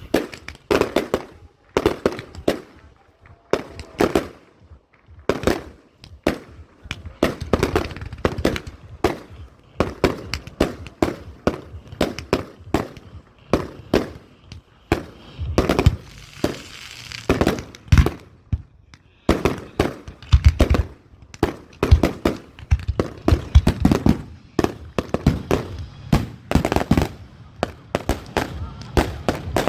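Fireworks display firing: a rapid series of sharp bangs, several a second, from shells and effects going off. About halfway through there is a brief crackling hiss.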